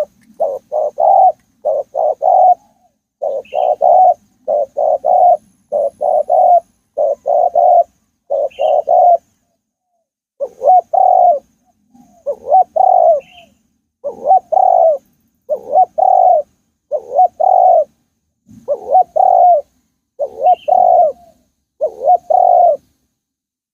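Spotted dove cooing: repeated phrases of two or three low, hollow coo notes, one phrase roughly every second, with brief pauses between some runs. A few faint high chirps from another bird come in now and then.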